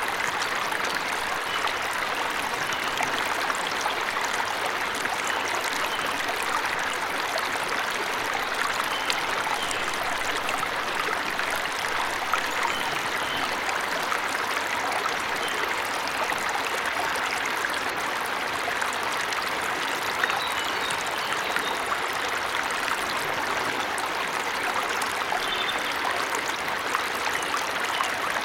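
Steady rushing and trickling of a forest waterfall, with a few faint short bird chirps now and then.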